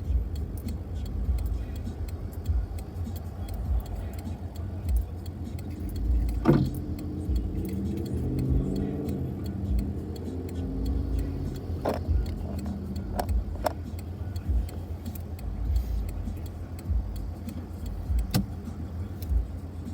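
A car driving on the highway, heard from inside: a steady low rumble of engine and tyres, with a few sharp clicks or knocks scattered through it.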